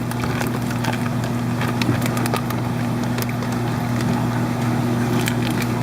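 Steady electric hum of fish-room aquarium equipment such as pumps, with a low tone over a wash of running-water noise and a few faint clicks.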